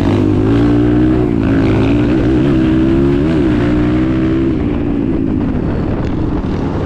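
Nissan 720 pickup's engine running under load, its pitch wavering up and down, then easing off about five seconds in.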